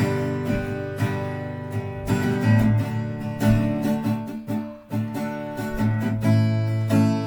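Acoustic guitar strummed in chords, with a brief drop in the playing about two-thirds of the way through before the strumming picks up again.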